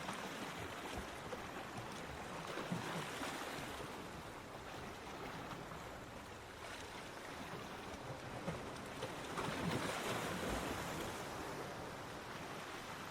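Ocean surf washing onto a beach: a steady rush of water, with waves surging louder about three seconds in and again about ten seconds in.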